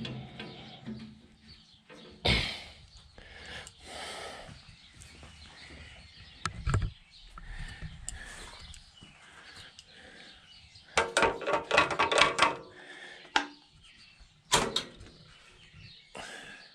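Scattered knocks and clanks, with a brief rattling clatter about eleven seconds in; birds chirp faintly.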